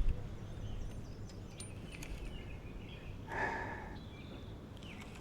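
Quiet open-air ambience: a low wind rumble on the microphone with a few short, falling bird chirps, and a brief breathy sound about three and a half seconds in.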